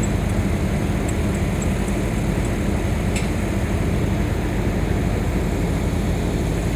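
Heavy diesel engine running steadily with a low rumble, with a few faint high ticks over it.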